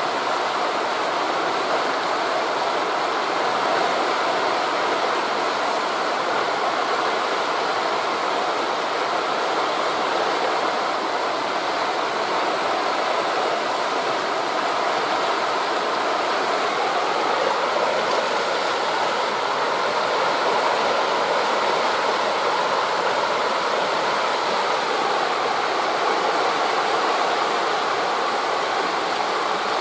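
Steady rushing noise of wind through forest leaves mixed with the sound of sea waves breaking on a beach, holding an even level with no distinct surges.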